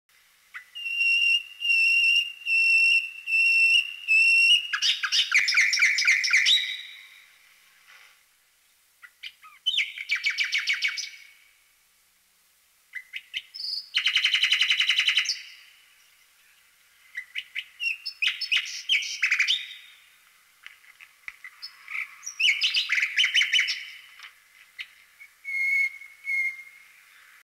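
Birdsong: a bird whistles one clear note five times in a row, then sings rapid trills and chattering phrases a second or two long, with short pauses between them.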